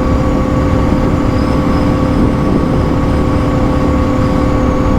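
Suzuki DR650's single-cylinder engine running at a steady cruising speed, its pitch holding level, over a steady rush of wind.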